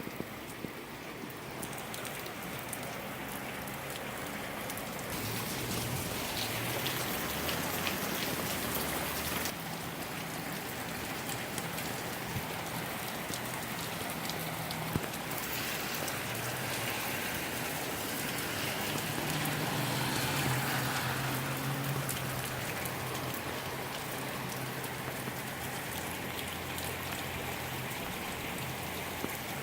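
Moderate rain pouring down in gusty wind. The sound grows louder from about five seconds in, drops back suddenly near nine seconds, and swells again around twenty seconds.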